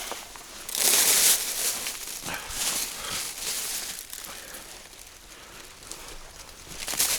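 Rustling and scraping of someone moving about and handling junk in a wooden attic, in several bursts, the loudest about a second in and another near the end.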